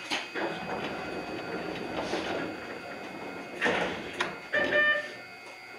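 Sounds inside an Iyotetsu 3000-series electric train: a hiss of air through the first few seconds, then a few sharp clunks and a brief run of beeps over a faint steady whine.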